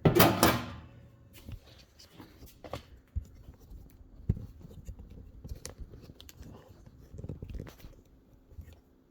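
A loud metal clang that rings briefly, then scattered light clicks and knocks as the metal parts of a vintage box fan are handled and fitted together.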